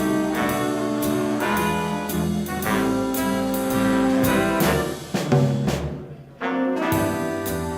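A small swing band plays a jazz instrumental: trumpet, trombone and saxophones in horn chords over upright bass and drums. Around six seconds in the band breaks off for a moment, then the horns come back in together.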